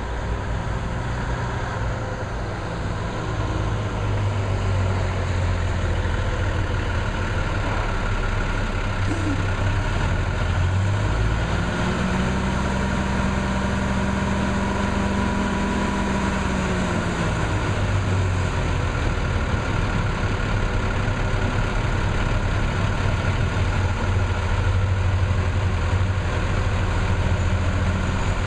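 The Cummins six-cylinder diesel of an M817 5-ton 6x6 military dump truck running steadily at idle. About twelve seconds in, the engine speed rises for roughly five seconds, then settles back to idle.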